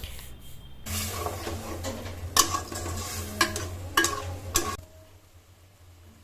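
Potato pieces being stirred and fried in spice paste in a pan: a sizzle, with a spatula scraping and knocking against the pan four or five times. It stops about five seconds in.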